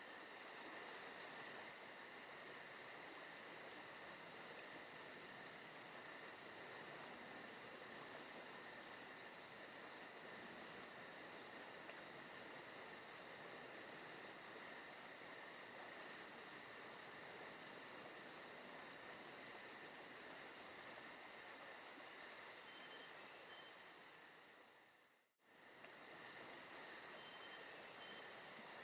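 Forest ambience track of crickets and other insects chirping in a faint, steady chorus. It fades out briefly near the end and comes straight back.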